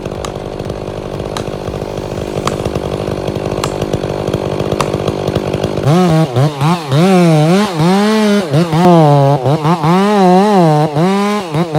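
Chainsaw cutting wood: for about six seconds a steady rasping with a few sharp ticks, then the two-stroke engine note comes to the fore, its pitch rising and falling again and again as the saw is throttled and loaded in the cut.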